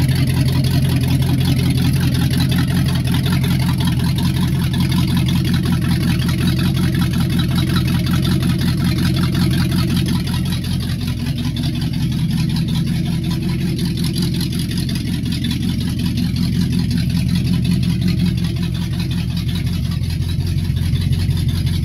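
1965 Chevrolet Impala's V8 engine idling steadily while it warms up, a little quieter about halfway through.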